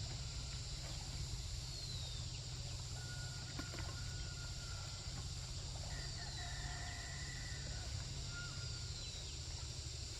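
Chickens and other birds calling faintly, with a short falling call repeated every two or three seconds and a longer held call, likely a rooster's crow, about six seconds in, over a steady low hum and high hiss.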